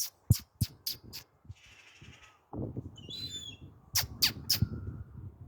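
Seagull at close range: a short, high squeaky call about three seconds in, among a series of sharp taps, a run of five near the start and three more about four seconds in.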